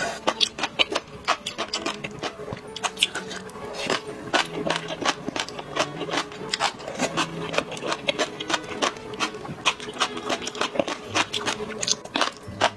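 Close-miked eating: chewing and slurping of spicy tripe, enoki mushrooms and green chili peppers in chili oil. It is a dense, irregular run of wet, crisp clicks, with faint background music under it.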